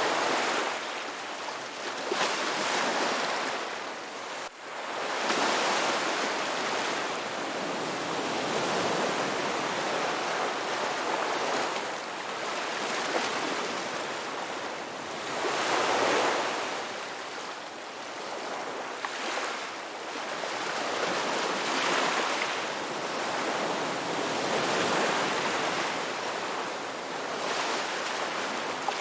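Ocean waves breaking and washing up a beach, the surf swelling and falling back every few seconds.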